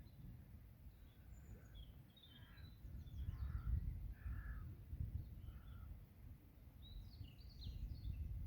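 Birds calling at a pond: a run of short, harsh calls in the middle, then quick high chirps from a small songbird near the end. A low rumble lies underneath throughout.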